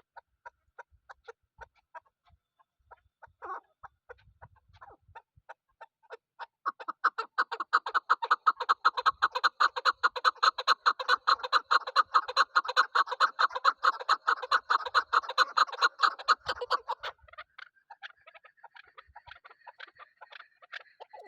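Female chukar partridge calling: scattered clucking notes, then about seven seconds in a loud, fast run of rapid clucks lasting around ten seconds, which stops abruptly and gives way to softer notes.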